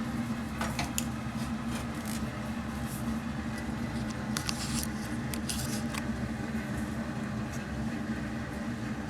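Steady hum of a bathroom exhaust fan, with a few light clicks and scrapes as an old shower head is twisted by hand on its pipe fitting, trying to loosen it.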